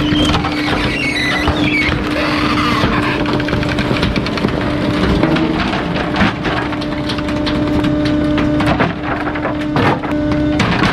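Garbage truck compactor crushing bulky waste. A steady hum runs under repeated cracking and snapping as the load breaks apart.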